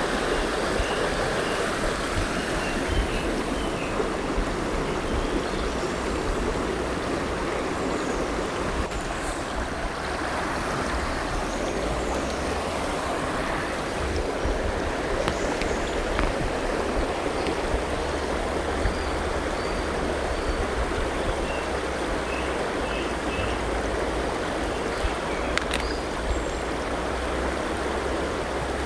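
River water flowing steadily, with faint, scattered bird chirps over it.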